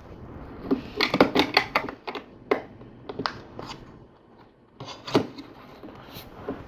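LEGO plastic bricks being handled and pressed into place, with quick runs of small plastic clicks and taps and a few single clicks.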